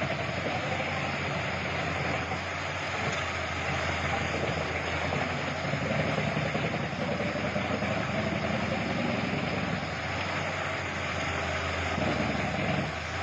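Heavy forestry machine's engine running steadily, with a constant low hum under a wash of mechanical noise.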